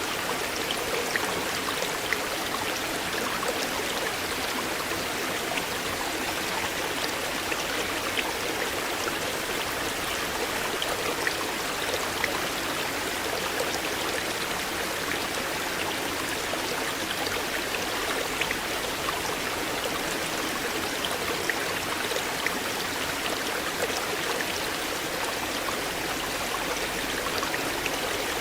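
A river flowing over its bed, a steady rushing and gurgling with small scattered splashes and drips.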